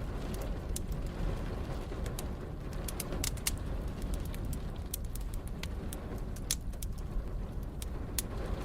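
Wood fire crackling, with scattered sharp pops, over a steady low rumble.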